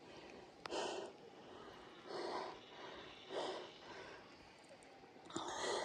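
A person breathing hard through the mouth, about four or five heavy breaths a second or so apart: a cyclist catching her breath during a rest stop on a steep climb.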